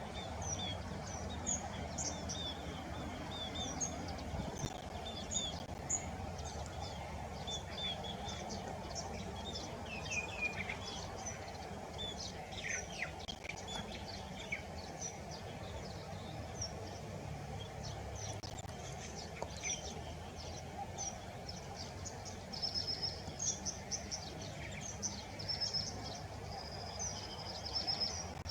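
Wild birds chirping and calling over a steady background hum: many short, high chirps, a few falling notes, and several brief trills near the end.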